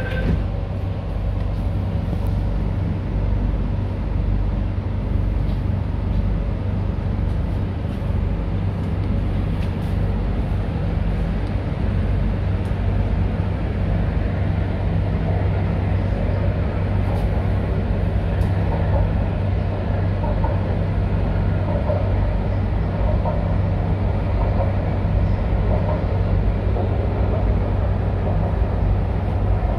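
MTR Kwun Tong Line C-train heard from inside the car: a steady low hum from the train's running gear under a continuous rumble of wheels on track as it runs between stations.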